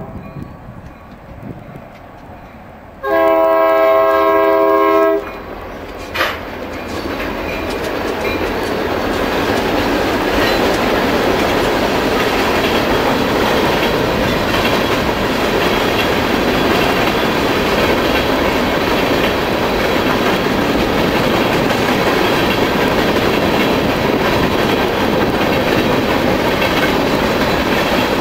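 Freight train passing: the locomotive horn sounds one long blast about three seconds in, lasting about two seconds. The rolling noise of the freight cars' wheels on the rails then builds over a few seconds and stays loud and steady as the cars go by.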